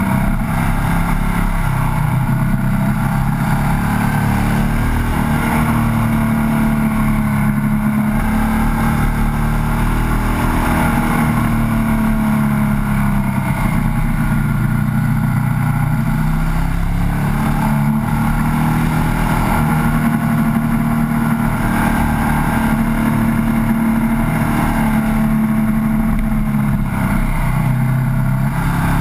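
Ducati 1098S's L-twin engine pulling hard through a run of bends, heard from on board the bike. Its note sags and climbs again a couple of times as the rider rolls off and gets back on the throttle, with wind rush under it.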